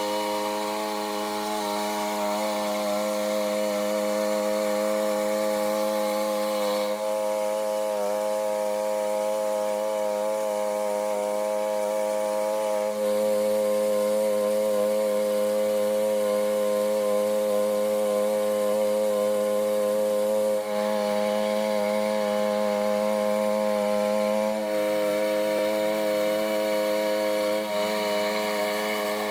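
Small engine-driven machine running steadily at high speed, holding an even pitch throughout with only slight shifts.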